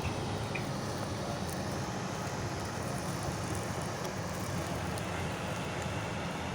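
Heavy diesel farm machinery running steadily: an even, dense engine and machine noise, heaviest in the low end.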